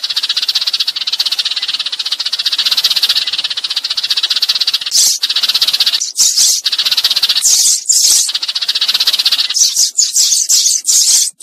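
Sparrow chattering: a fast, high rattling trill that runs unbroken for about five seconds, then breaks into short separate runs of chatter. This is the flock-calling chatter used as a lure for trapping sparrows.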